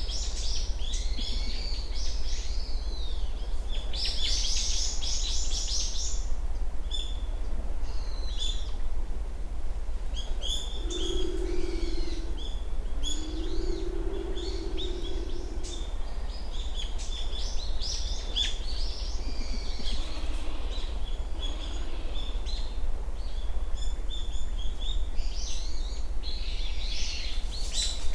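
Small birds chirping and twittering in high, quick calls throughout, over a low steady background rumble, with a low two-note hoot, a short note then a longer one, near the middle.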